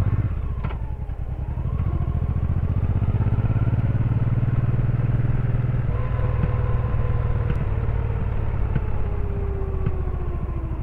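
Honda Shadow VT1100C's V-twin engine running as the motorcycle rides along; its note slides slowly down over the last few seconds as the bike slows.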